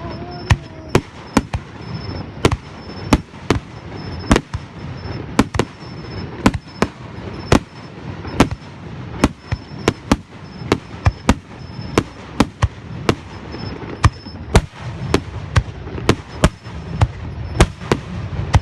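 Fireworks bursting in a rapid, irregular series of sharp bangs, about two or three a second, over a continuous low rumble.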